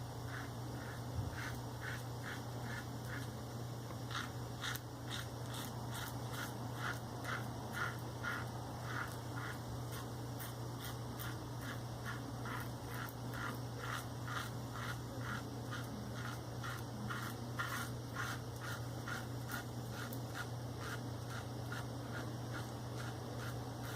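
Safety razor with a Maggard V3A aggressive head and a Shark Super Chrome blade scraping through lathered face stubble in short strokes, about two a second, on the first pass with the grain. A steady low hum sits underneath.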